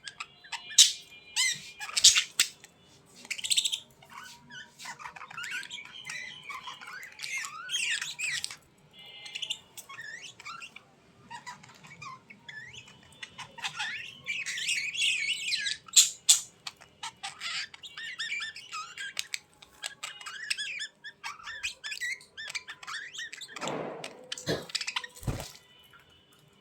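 Birds chirping and squawking in a busy, irregular stream of short calls, with a couple of lower, louder sounds near the end.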